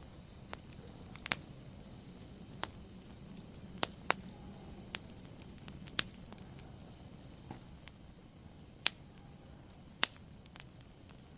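Wood fire burning in a fireplace: a soft steady hiss with sharp, irregular pops and crackles from the logs every second or so, the loudest pop about ten seconds in.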